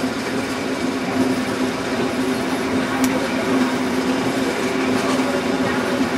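Passenger train hauled by an SP42 diesel locomotive running along the track, heard from an open window: a steady low drone over wind and wheel-on-rail noise, with a single click about three seconds in.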